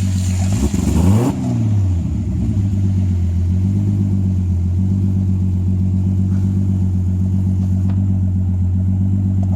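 Turbocharged BMW M52B28TU straight-six running with the throttle floored, holding a steady pitch rather than climbing, with a brief wavering and a burst about a second in. The engine is faulty: it stalls, smokes and knocks.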